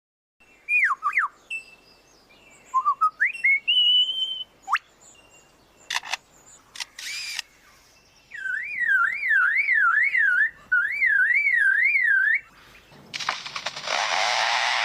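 Mimicking songbird whistling: a few sliding whistles, some clicks, then a warbling whistle that wavers up and down about three times a second for about four seconds. Near the end a harsh, rasping scrape starts and continues.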